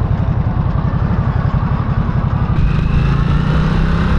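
Harley-Davidson Nightster's V-twin engine running in sport mode, pulsing unevenly at low revs at first, then the revs rise to a steadier, higher note about two and a half seconds in as the bike pulls.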